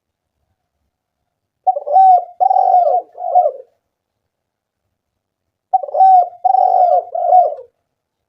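Spotted dove (tekukur) cooing: two phrases of three or four coos each, about four seconds apart, with silence in between.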